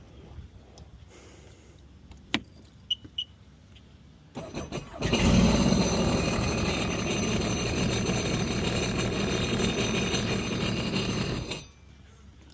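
A click and two short beeps, then the Sea-Doo Spark's engine cranks briefly, catches and runs steadily for about six seconds before shutting off suddenly. The craft starts now that its faulty 30-amp main relay has been replaced.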